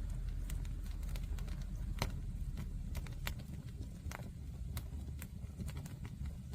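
Wood bonfire crackling, with sharp irregular pops of burning wood a few times a second over a steady low rumble.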